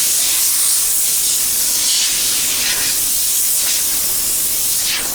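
Compressed-air blow gun blowing grit and wire-wheel debris off a freshly stripped steel wheel: a loud, steady hiss that stops near the end.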